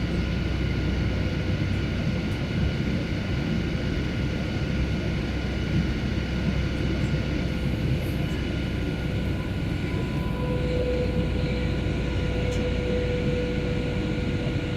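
Steady jet engine and airflow drone inside the cabin of a Boeing 737 in flight, with a few faint steady whining tones over the rumble; one more tone joins about ten seconds in.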